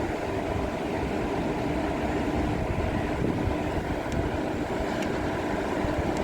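Passenger train running: a steady rumble with a low, even hum.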